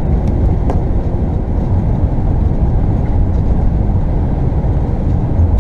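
Steady low road and engine rumble heard from inside a moving vehicle's cab.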